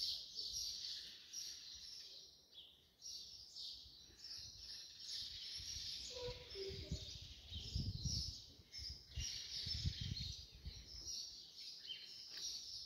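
Small birds chirping over and over, a busy high twittering. Low rumbles on the microphone come in about two-thirds of the way through.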